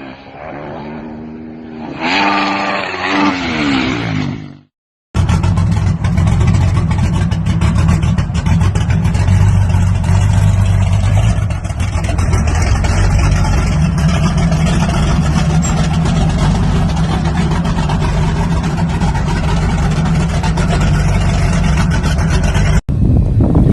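Diesel truck engines: one revs with a rising pitch, then after a cut another runs loud and steady with a heavy low rumble.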